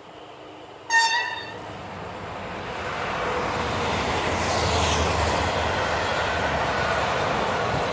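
A train sounds one short horn blast about a second in, then passes close by. Its running noise swells over a couple of seconds into a steady loud rush and rumble of wheels on rails.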